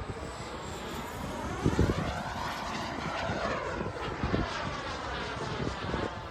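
JetCat 300 Pro turbine of a BVM Desperado RC jet in flight, a steady jet rush with a sweeping, phasing quality that shifts as the jet passes, most marked around the middle. A few low thumps of wind on the microphone lie under it.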